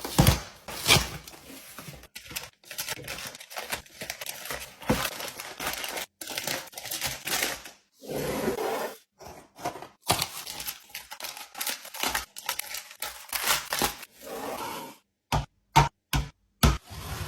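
Restocking sounds of food packaging and containers being handled: plastic wrappers crinkling and tearing, and items and containers set down with clicks and thunks. The sounds come in short edited segments that cut off abruptly, with brief silent gaps between them, most closely spaced near the end.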